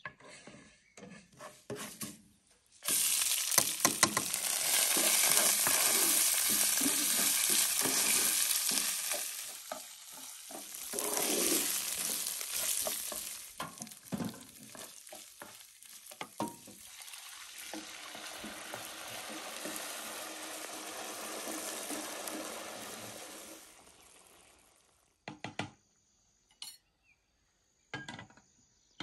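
Food frying in a hot pan: a sudden loud sizzle about three seconds in as it goes into the oil. It eases, flares up again, then settles to a quieter sizzle that fades out near the end, with light clicks of stirring.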